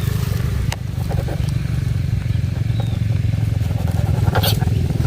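Motorbike engine idling steadily, with a few knocks; the sharpest comes about four seconds in.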